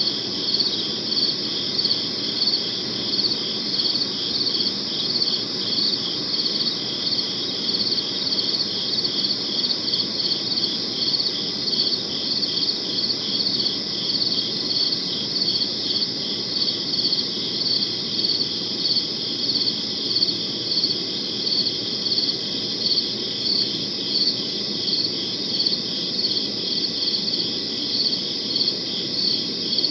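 Crickets chirping in a steady chorus, the chirps pulsing evenly several times a second, over a faint low background hiss.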